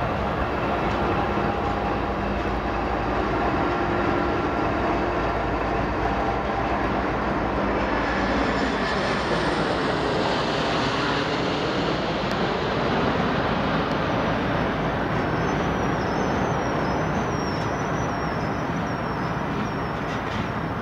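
Freight train passing close by: a steady rumble of rolling cars on the rails, with a diesel locomotive placed mid-train going by about ten seconds in.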